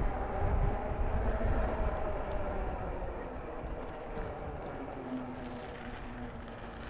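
Wind buffeting the microphone and a steady rumble while riding an e-bike, loudest in the first couple of seconds. Over it runs a faint whine that drops a little in pitch, with a lower faint hum near the end.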